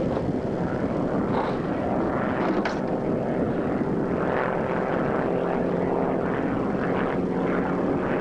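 Hawker Sea Fury's piston engine running at power through an aerobatic manoeuvre, a steady propeller drone whose pitch shifts as it flies.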